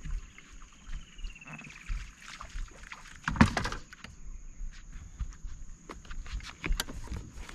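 Scattered knocks and clicks on a small fishing boat, with one louder, noisier burst about three and a half seconds in.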